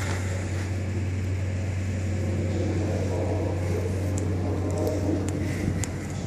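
Steady low machine hum with a faint haze of background noise and a few light clicks.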